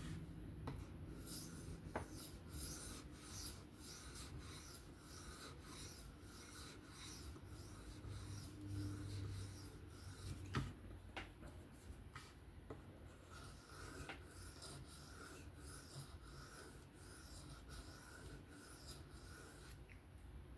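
Knife blade stroked lightly along a sharpening stone in freehand deburring passes, a faint rasping scrape at about two to three strokes a second. The strokes come in two runs, with a pause of a couple of seconds about halfway through.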